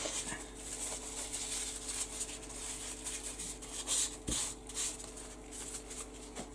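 Wiping up a craft mess: quiet, irregular rubbing and swishing strokes on the work surface, with a couple of louder swipes about four seconds in.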